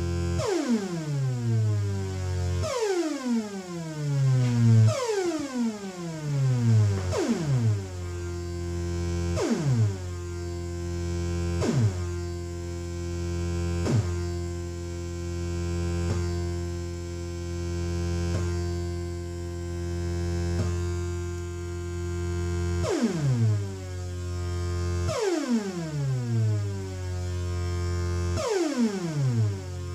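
Future Sound Systems Brunswick DIY analogue synthesizer sounding repeated notes, each falling away in a swooping downward sweep about every two seconds, with its envelope set to decay only. In the middle the sweeps stop and a held buzzy drone slowly swells and fades, before the falling sweeps return near the end, all over a steady low hum.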